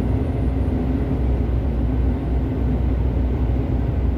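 Heavy truck's diesel engine running steadily: a constant low rumble.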